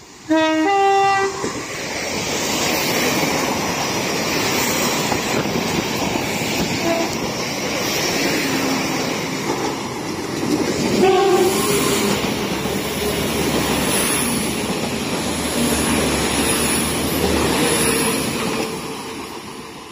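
Translink diesel multiple unit sounding a short two-note horn as it comes into the station. It then runs close past the platform with loud, steady wheel and engine noise, and another brief tone about eleven seconds in.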